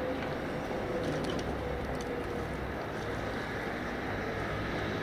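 Steady rumble of a Seibu Shinjuku Line train moving off past a level crossing, with a faint whine that fades out about halfway through.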